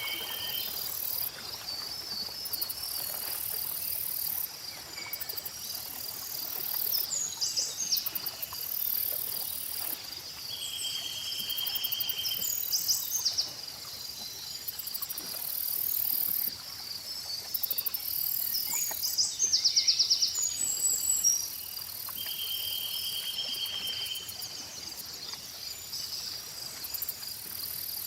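Layered lakeside nature ambience: a constant pulsing insect chorus with a high buzz, and birds singing over it. The birds give several held whistled notes of about two seconds each and many quick chirps. Faint lapping of lake water sits underneath.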